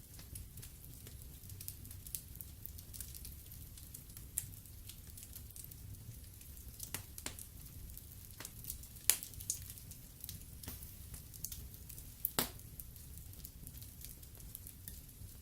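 Wood fire burning in a fireplace: a steady low rumble with scattered crackles and pops, two of them louder in the second half.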